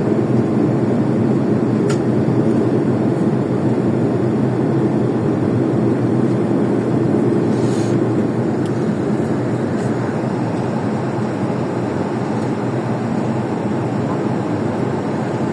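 Steady cabin noise of a passenger airplane in flight: engine drone and rushing air, heard from inside the cabin.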